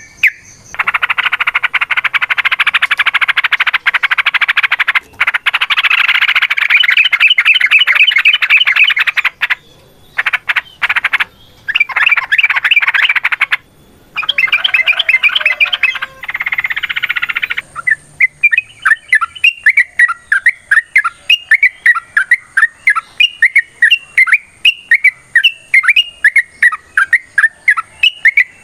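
Yellow-vented bulbul (trucukan) song: a long stretch of fast, dense chattering, then broken bursts of chatter with short gaps. For the last ten seconds or so it gives a steady run of short repeated notes, about three a second.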